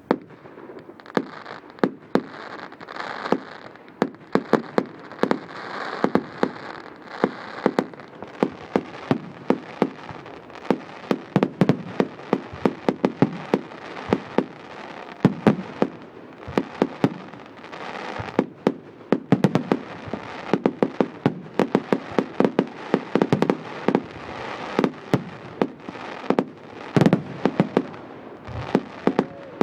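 Fireworks going off: a dense, continuous run of sharp bangs and crackling pops, with a hiss under the first eight seconds or so.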